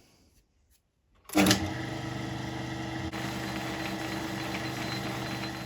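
Metal lathe starting up about a second in and running steadily with an even motor and gear hum while a steel bush is reamed to size with an adjustable reamer.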